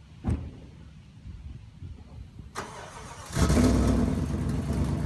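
A click, then the 2006 Dodge Ram pickup's engine starting about three seconds in and running at a steady idle.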